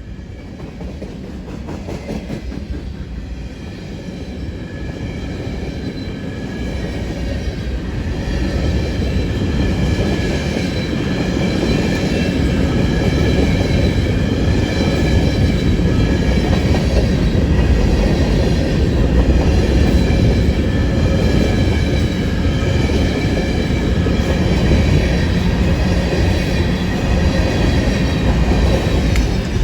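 A CN train rolling past: its rumble grows louder over the first ten seconds or so, then holds steady as the cars go by, with a faint high wheel squeal over it.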